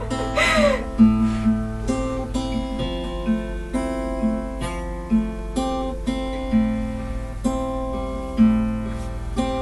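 Acoustic guitar playing a slow, repeating pattern of picked notes, about two a second, as the introduction to a song.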